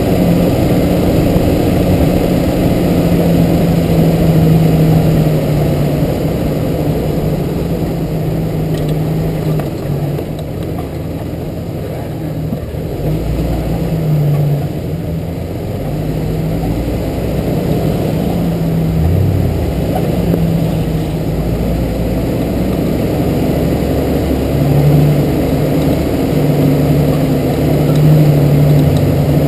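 Jeep TJ's engine running at low trail speed as it drives along a dirt track, its note rising and falling a little with the throttle and easing off briefly about halfway through.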